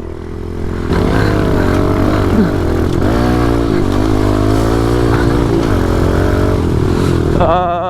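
Pit bike engine running while ridden, its pitch rising and falling several times with the throttle.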